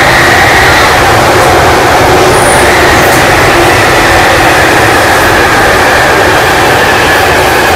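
Alstom 1996 Stock London Underground train running loud and steady, a rumble of wheels on rail with a motor whine that slowly falls in pitch as the train slows.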